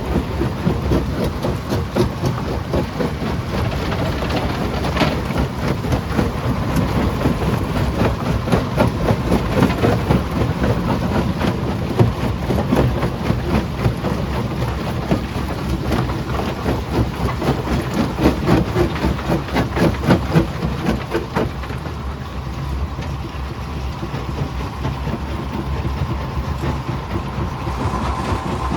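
Primary jaw crusher running under load, with a heavy steady rumble and a constant irregular clatter of rock knocking and cracking as it is crushed. A steady whine comes in near the end.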